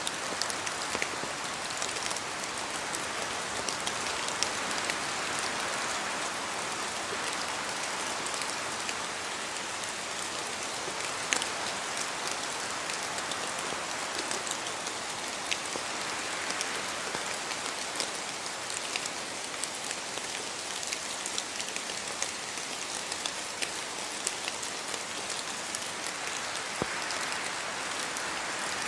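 Steady rain falling in a forest, an even hiss with many separate drops pattering, the sharpest about a third of the way in.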